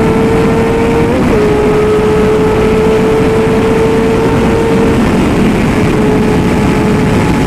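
Sport motorcycle engine running at high revs at speed, its high, steady note climbing slowly, with a brief hitch about a second in, over heavy wind rumble on the helmet microphone.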